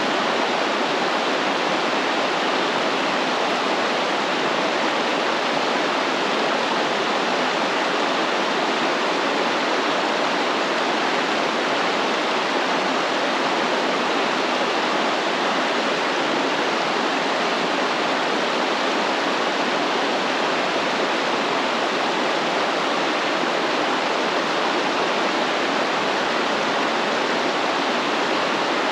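A stream of water flowing steadily, a constant even rushing with no breaks.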